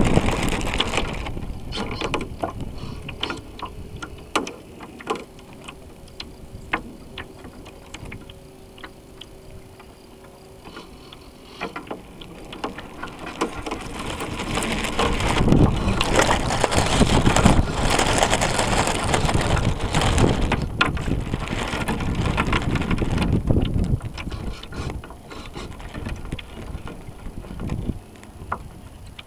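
Water rushing and splashing along the hull of a radio-controlled sailboat, picked up by a camera mounted on the boat, with wind on the microphone and scattered clicks and knocks. The rushing swells loudly for several seconds midway, then eases.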